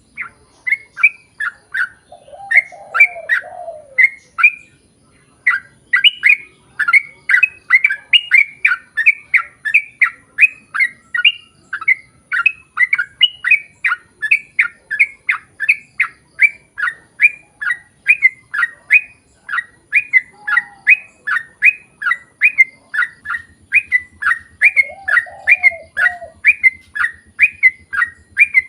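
Yellow-vented bulbul (trucukan) singing a long, unbroken run of quick chirping notes, about three a second, with a few lower warbling phrases now and then.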